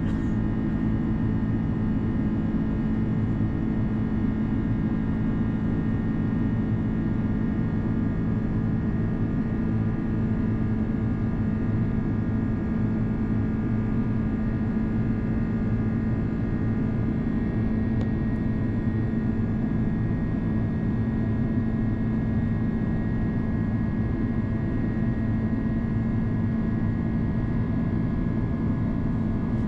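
Steady cabin noise of an Airbus A330-200 jet airliner in flight: a constant low rumble of engines and airflow with a steady hum, holding unchanged throughout.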